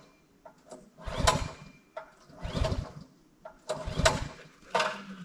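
Petrol pressure washer being pull-started: four hard pulls on the recoil starter about a second and a half apart, the small engine turning over on each but not catching.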